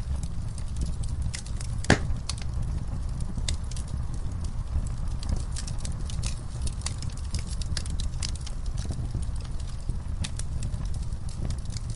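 Wood fire crackling: a steady low rumble of burning with frequent, irregular sharp pops and snaps, one louder pop about two seconds in.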